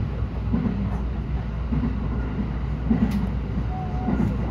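JR West 223 series 6000 electric train running at speed, heard from inside the car: a steady low rumble of wheels on rail, with a low pulse repeating a little over a second apart and a single short click about three seconds in.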